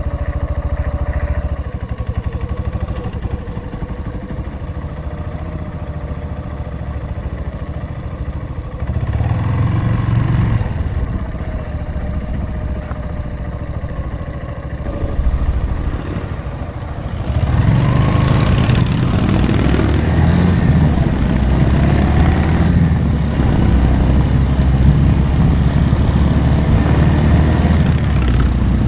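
Motorcycle engine idling steadily, then revving and pulling away; from about 17 seconds in it runs louder under way, with a rush of noise over it.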